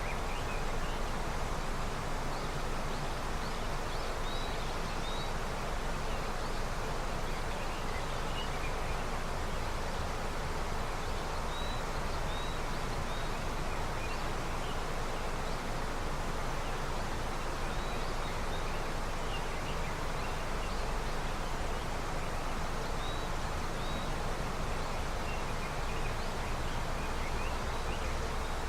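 River swollen with snowmelt flowing, a steady rush of water. A few short, faint high chirps come and go over it.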